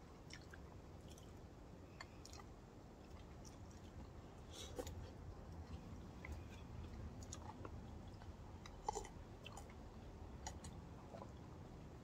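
Faint chewing with scattered light clicks of metal spoons scraping soft coconut flesh from the shells, over a steady low rumble.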